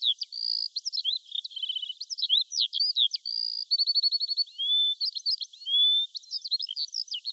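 Songbird singing a fast, varied song of high chirps, whistled slurs and short rapid trills, with no other sound beneath it.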